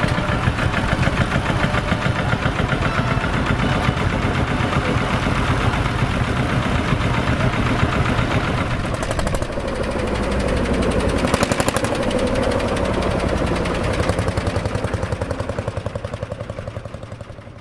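Vintage tractor engines running with a fast, even chugging beat as they go by. The engine note shifts about halfway through, and the sound dies away over the last few seconds.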